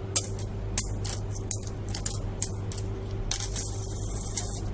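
Coins clinking as they are counted out for payment: a string of short, sharp chinks, with a longer ringing jingle about three and a half seconds in.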